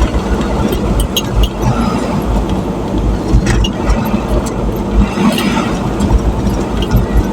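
A road vehicle driving: steady low engine and road rumble, with scattered small clicks and rattles.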